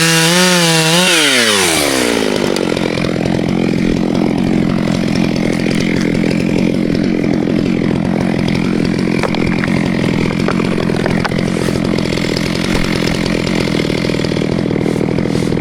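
Chainsaw engine running at high revs with a wavering pitch, which drops away about a second and a half in; a steady, lower engine drone follows.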